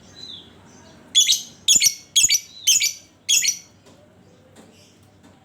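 Lovebird giving five loud, harsh calls in quick succession, about two a second, with fainter chirps before and after.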